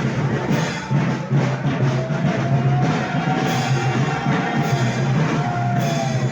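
Festival band music of the Moros y Cristianos kind, with drums keeping a steady beat about twice a second under a long held melody note that rises and falls back.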